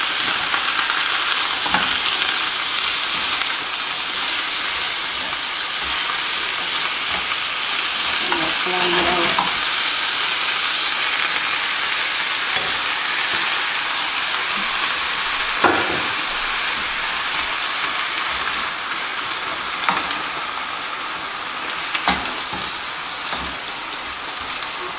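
Rapini (broccoli rabe) sizzling steadily in oil with sautéed vegetables in a stainless steel pan as it is stirred with a wooden spoon, with a few sharp knocks of the spoon against the pan.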